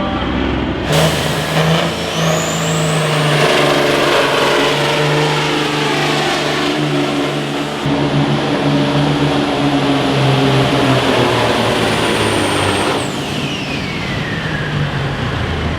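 A tractor-pull vehicle's engine runs at full throttle through a pull, with a high whine over it that rises at the start. About thirteen seconds in, the engine comes off power and the whine falls away.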